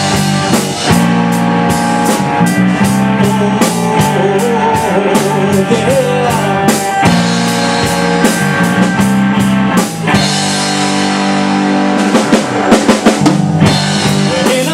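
Rock band playing an instrumental passage with drum kit, bass and guitar under a steady beat, and a busier run of drum hits about twelve seconds in.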